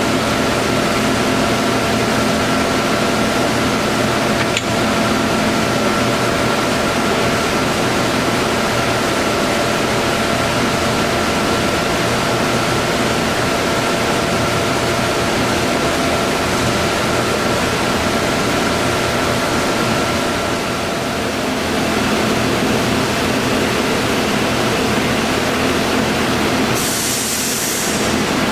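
Harrison M300 engine lathe running under power: a steady mechanical hum from the headstock drive with a high whine over it. The whine drops out about three-quarters of the way through, and a brief high hiss comes near the end.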